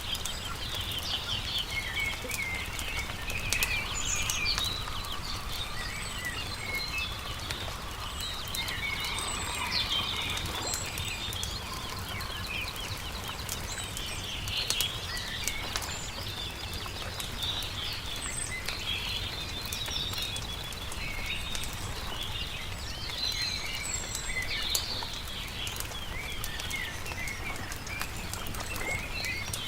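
Songbirds chirping and trilling continuously, mixed with the scattered sharp pops and crackle of a wood campfire, over a steady low rumble.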